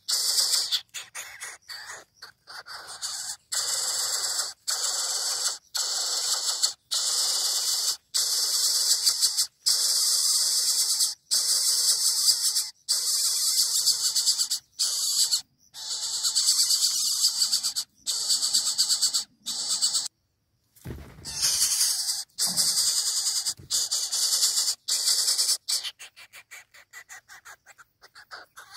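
Coucal chick begging for food with repeated hissing calls, each about a second long in quick succession. A brief pause and a low thump come about two-thirds of the way through.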